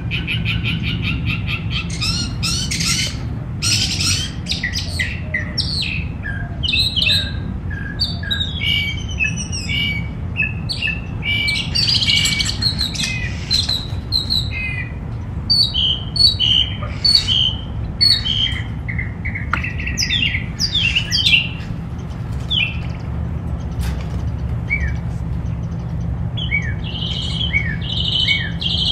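Several songbirds chirping and singing together in a spring backyard, with quick repeated chirps and short trills overlapping throughout, over a steady low hum.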